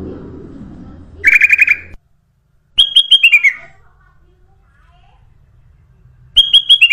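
Kutilang emas bulbul calling in three quick phrases of five or six clear whistled notes each, the second and third stepping down in pitch. A low background rumble cuts off suddenly about two seconds in.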